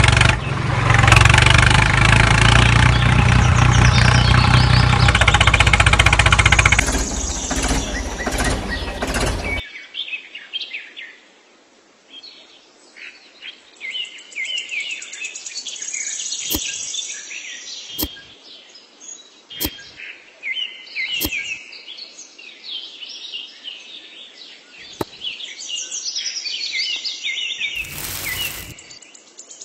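An engine running steadily for the first several seconds, then cutting off abruptly. After that, birds chirping with a few sharp clicks, and near the end a brief splash of water poured into a small mixer drum.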